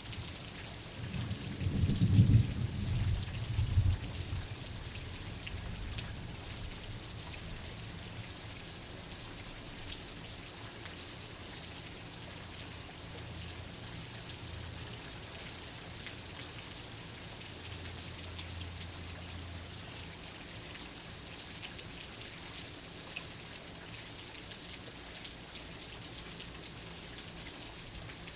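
Steady rain falling, with a rolling rumble of thunder about one to four seconds in that fades away, leaving only the even hiss of the rain.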